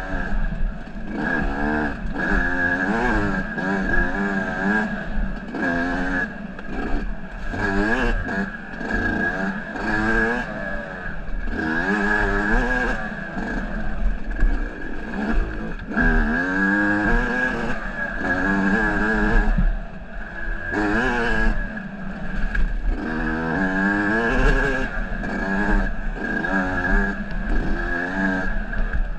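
Dirt bike engine running under way, its revs rising and falling over and over as the rider works the throttle, with a steady high whine underneath. This is the bike's first ride after its engine seized.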